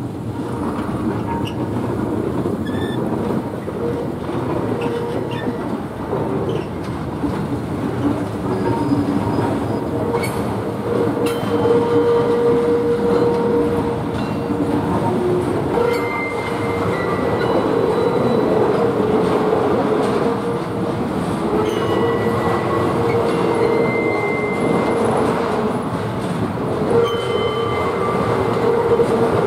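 Freight train of loaded flat wagons rolling past, a steady rumble of wheels on rail with thin, drawn-out squealing tones over it that grow stronger in the second half, and a few brief knocks.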